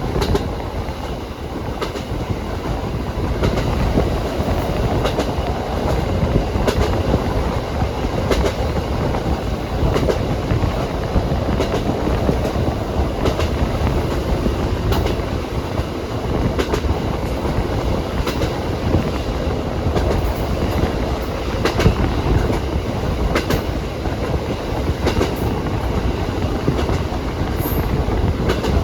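Train running along the track, its wheels clicking over rail joints at a steady pace over a continuous rumble.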